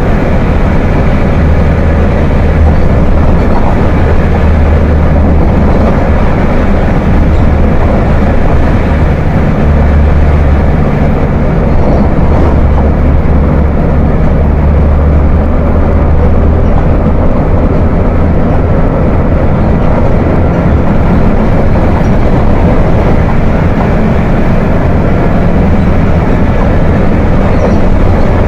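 Volkswagen 17.230 OD bus diesel engine running with a deep, growling drone whose low end swells and eases every few seconds.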